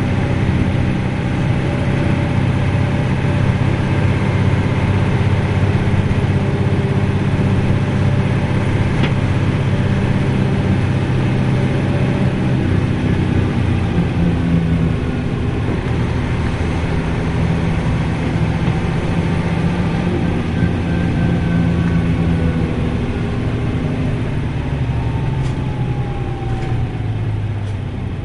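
A Nissan Diesel U-UA440LSN city bus's diesel engine and drivetrain running under way, heard from inside the bus. The engine note shifts about halfway through, and near the end a whine falls in pitch as the bus slows.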